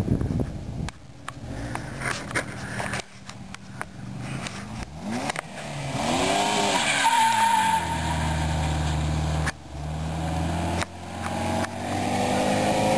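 Chevrolet Cavalier's 2.2-litre OHV four-cylinder engine revving hard, its pitch rising and falling, with tyres skidding as the car slides through hard turns. The sound cuts abruptly a few times between takes.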